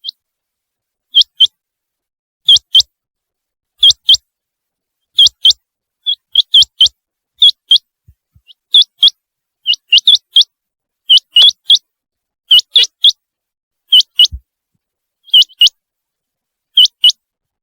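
Common quail calling loudly: short, sharp high notes in quick groups of two or three, repeated about every second and a half.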